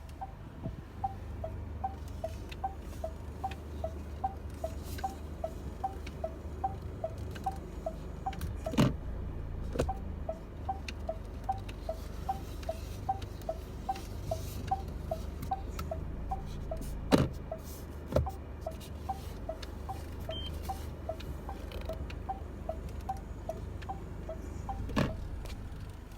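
Inside a SsangYong Rexton Sports with the engine idling, a short high tick repeats evenly about twice a second over a low hum. Three sharp knocks come about eight seconds apart.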